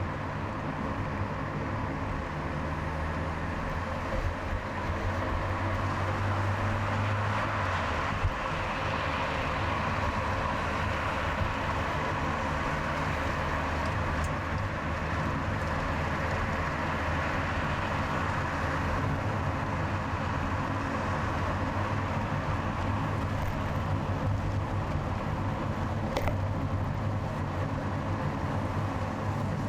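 A car driving on a highway: steady engine hum under continuous tyre and road noise, with two faint short ticks.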